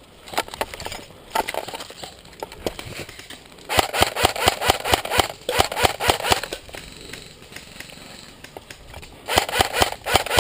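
Quick running footsteps crunching over dry ground and brush, with clothing and gear rustling. They come in two runs of about five steps a second, one from about a third of the way in and the other near the end.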